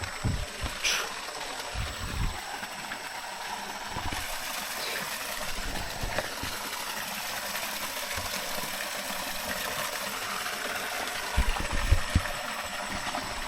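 Freshwater river with a small waterfall rushing steadily, with a few dull low thumps near the start and again near the end.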